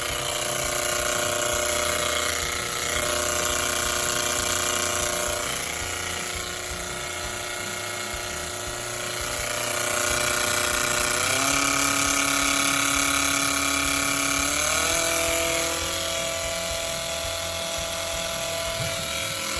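Panasonic drum-type washing machine in its wash stage, making a loud, steady mechanical whine with a rough noise under it. The pitch steps up about eleven seconds in and again around fifteen seconds. This abnormal noise during washing comes from a failing circulation pump.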